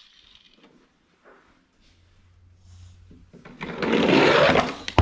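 A die-cast Hot Wheels toy car rolling fast down a homemade cardboard track, a rumbling rattle that lasts about a second and a half, starting about three and a half seconds in.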